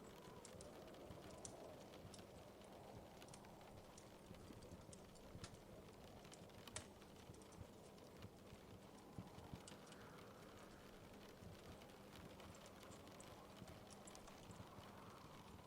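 Faint wood fire crackling: irregular small pops and snaps over a steady low hiss, with one sharper snap about seven seconds in.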